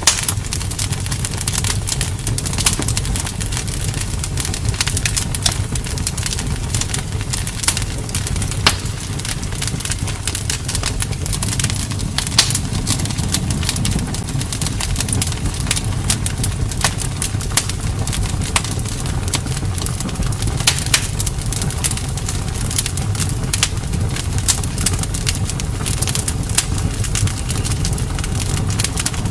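Campfire burning: frequent sharp, irregular crackles and pops from the burning wood over a steady low rumble.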